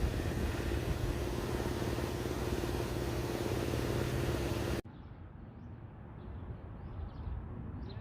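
A vehicle engine runs with a steady hum under loud, even rushing noise. Almost five seconds in it cuts off abruptly to a much quieter outdoor bed with birds chirping.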